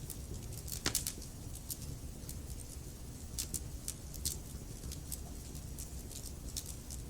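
Wood fire in a fireplace crackling: logs burning with a steady low rumble of flame and frequent sharp pops and snaps, a loud double pop about a second in.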